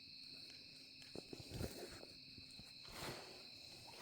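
Faint steady chirring of an insect chorus, a high even drone. About a second in there are a few soft knocks, and near three seconds a brief rustle of movement.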